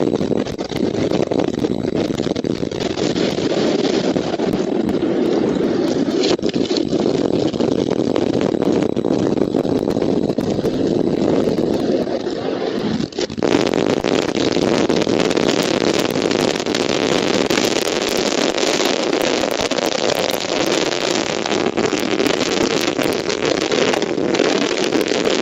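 Strong wind blowing across an outdoor nest-camera microphone: a steady, loud rush with a short lull about 13 seconds in.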